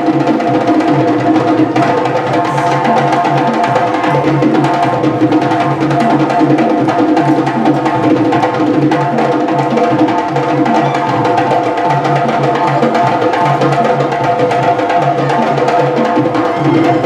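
Percussion-led music playing steadily: drums with a wood-block-like clicking over a sustained pitched backing, in an even, repeating rhythm.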